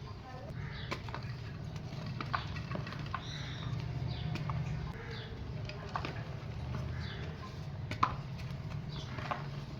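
Dry mini clay pots being crushed and crumbled, giving irregular crisp cracks and snaps, the sharpest about eight seconds in, over a steady low hum.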